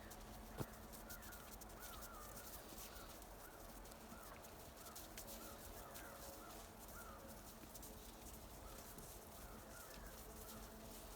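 Faint bird calls, a string of short repeated calls coming in loose clusters, with one sharp click about half a second in.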